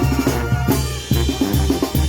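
Live band music with a steady, loud beat of bass drum, snare and a bass line. The band thins out briefly about half a second in, then comes back in full with sharp drum hits.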